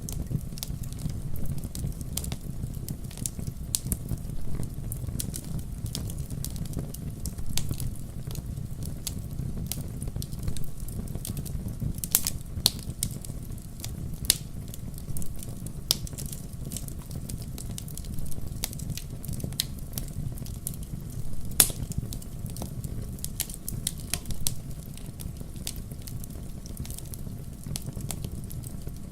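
Wood fire crackling in a fireplace: a steady low rumble of burning with frequent sharp pops and snaps, two louder pops about twelve and twenty-one seconds in.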